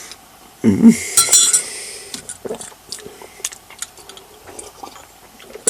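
Cutlery clinking against a glass jam jar and dish as currant jam is spooned out: a bright ringing clink about a second in, then scattered small clicks and taps.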